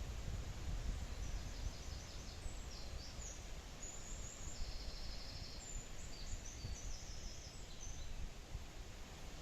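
A small songbird singing high-pitched phrases of quick repeated notes and short trills, starting about a second in and stopping shortly before the end, over a steady low rumble.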